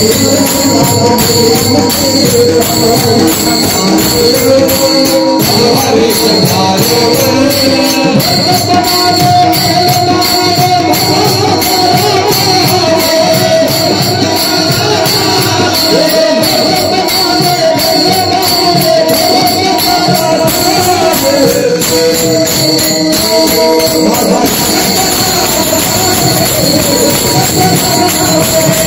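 Pakhawaj drumming in fast, dense strokes, with jingling metal percussion and a wavering melody line over it.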